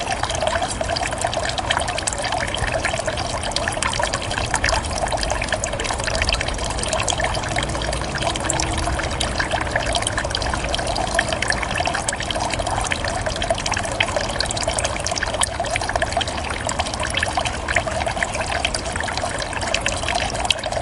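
Water from a bamboo fountain spout trickling and pouring steadily into a basin, with small splashes scattered through it.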